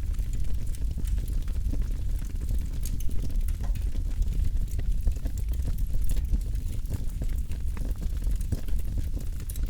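Campfire burning, with a steady low rumble and frequent small crackles and pops.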